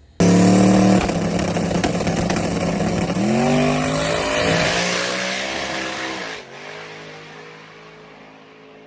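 Twin-turbo Dodge Charger Hellcat drag car running hard down the strip. The engine sound starts suddenly and loud, its pitch climbs about three seconds in and drops about two-thirds of the way through, then it fades as the car pulls away.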